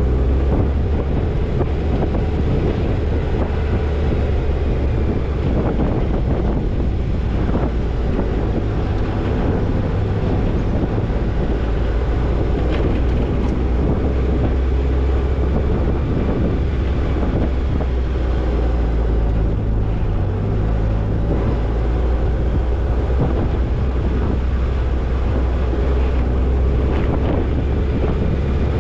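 Toyota Tercel 4WD wagon driving over a rough dirt trail: a steady low engine and road drone, with scattered knocks and rattles and wind on the microphone.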